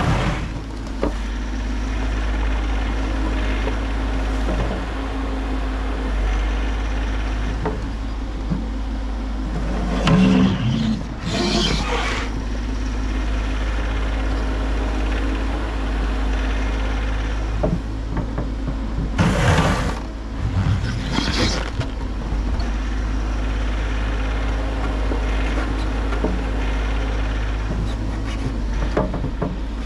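Bobcat E50 compact excavator's diesel engine running steadily while clearing snow, with louder, harsh noise bursts of the working machine about a third and two thirds of the way through.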